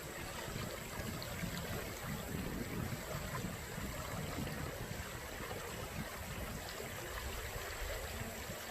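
Steady outdoor noise of water running in a small irrigation ditch, with a low rumble underneath and a faint steady high tone.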